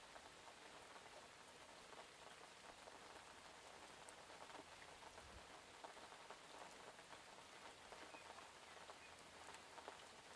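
Steady light rain: a soft even hiss with many small drops pattering on a surface.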